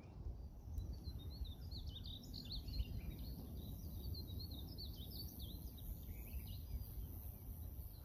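A songbird singing a rapid, warbling phrase of quick rising and falling whistled notes from about a second in until about six seconds, over a steady high hiss and a low rumble.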